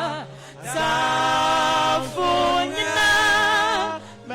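Voices singing a slow worship chorus in long held notes with vibrato, with a short break between phrases just after the start and again near the end.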